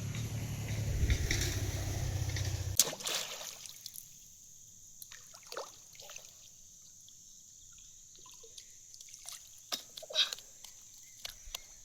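Water splashing and sloshing at the canal's edge. A low rumble under it cuts off suddenly about three seconds in, with a sharp click. After that come scattered small splashes and clicks.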